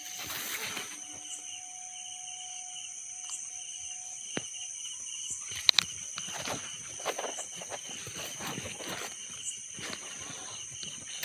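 Steady high-pitched insect drone from the forest, with two sharp clicks a little before six seconds in and irregular rustling and crunching from then on.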